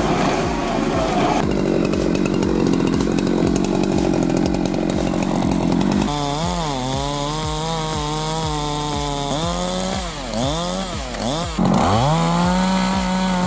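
Chainsaw running in a cut: rough steady machine noise at first, then from about six seconds in the engine note dips sharply several times and climbs back, bogging under load and revving up again.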